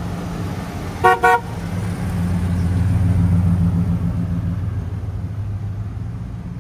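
Car horn tooted twice in quick succession, then a car's engine running as it pulls away, swelling and then fading.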